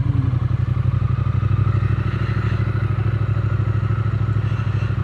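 Triumph Speed Twin 900's parallel-twin engine running steadily as the motorcycle is ridden.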